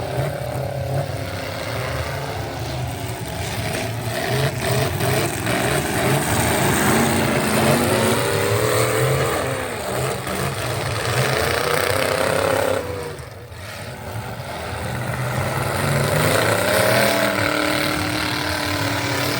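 Truck engine running hard and revving, its pitch climbing and falling; it drops off sharply about two-thirds of the way through, then climbs again.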